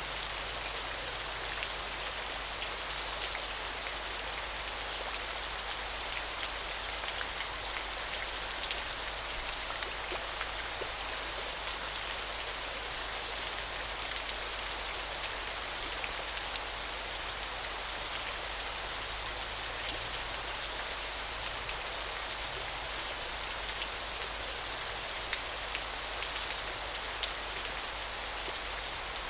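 Steady rushing of flowing river water. Over it, a thin, very high steady buzz comes in repeated phrases of a second or two and stops about three-quarters of the way through.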